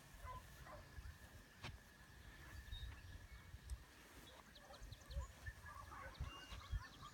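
Faint scattered bird chirps and calls, with low irregular rumbling on the microphone.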